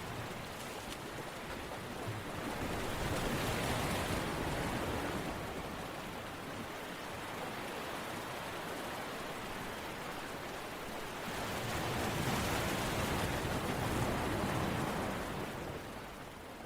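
A steady rushing, water-like noise with no distinct drops or tones. It swells louder twice and eases back between.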